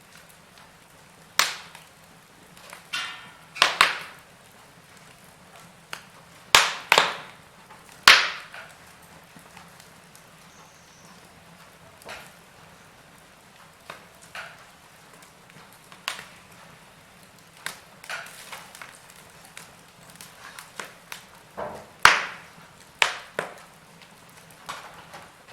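Log fire crackling: irregular sharp pops and snaps, a few of them loud, over a faint steady hiss.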